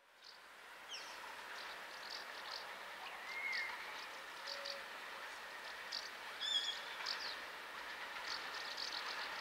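Faint, steady noise of a distant diesel freight train approaching, fading in at the start. Birds chirp over it throughout, with a brief whistled glide about three seconds in and a higher call near six and a half seconds.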